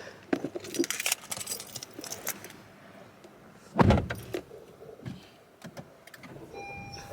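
Car keys jangling and rattling, then a single heavy low thump about four seconds in. Near the end a car's steady electronic warning chime starts.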